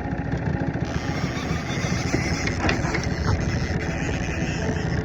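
Boat's outboard motor running steadily at trolling speed, a low even drone.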